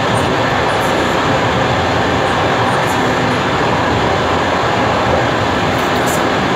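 DR1A diesel multiple unit running along the track: a steady, loud rumble of wheels on the rails, with a few faint ticks scattered through it.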